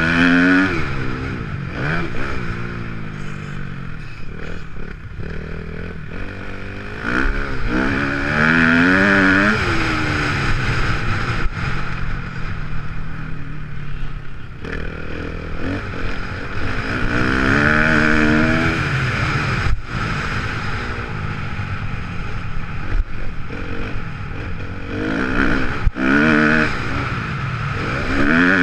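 2014 Kawasaki KX250F dirt bike's four-stroke single-cylinder engine revving hard and falling back, again and again, as it accelerates and shifts around a motocross track, with a loud rush of noise at each full-throttle peak.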